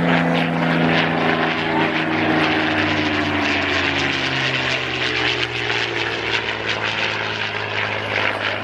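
Supermarine Spitfire PR Mk XI's Rolls-Royce Merlin V12 engine running steadily as the aircraft flies past. Its note falls in pitch as it passes, most clearly about four seconds in.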